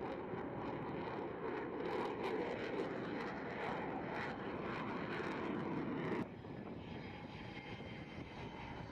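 Fixed-wing aircraft engine noise, a steady rumble; about six seconds in it cuts abruptly to a quieter steady engine noise.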